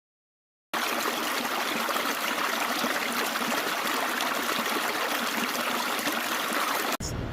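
Steady rush of flowing water, an even hiss with little low end. It starts abruptly after a moment of silence and cuts off sharply near the end.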